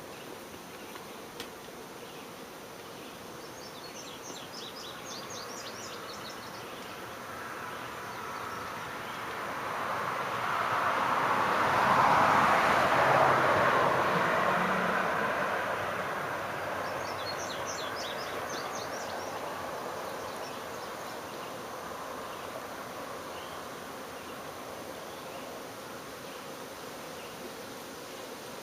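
Honey bees of a disturbed swarm buzzing as they are raked off a limb, the hum growing louder for a few seconds midway and then easing off.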